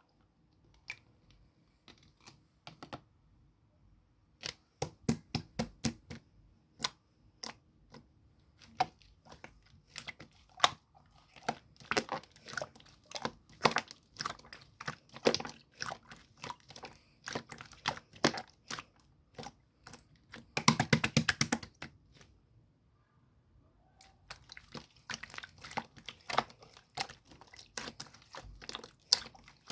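Translucent blue slime being squished and poked by hand, giving a series of sharp clicking pops. There is a quick run of rapid crackling pops about two-thirds of the way through, then a short pause.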